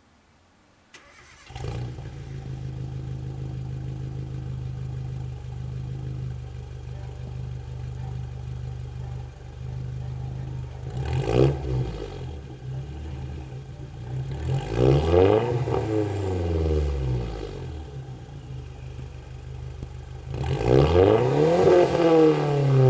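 Nissan Bluebird's CA18ET turbocharged 1.8-litre four-cylinder engine starting about a second and a half in and idling through a renewed custom exhaust. It is revved three times: a short blip, then two longer revs that rise and fall, the last near the end.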